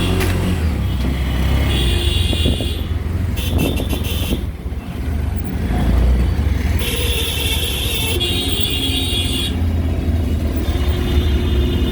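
Auto-rickshaw engine running with a steady low hum during the ride, amid street traffic noise.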